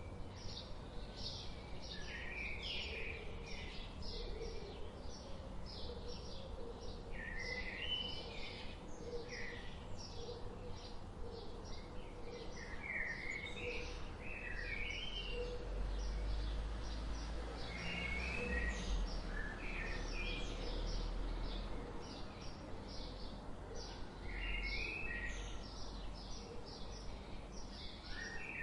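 Songbirds calling and singing: rapid short high chirps repeat throughout, broken every few seconds by brief warbling phrases. Under them runs a low rumble that grows louder in the middle.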